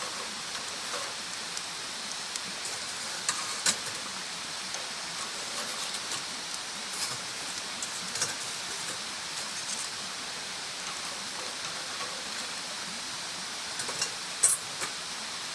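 Wood bonfire burning: a steady hiss with scattered sharp crackles and pops, a few louder pops about three and a half seconds in and near the end.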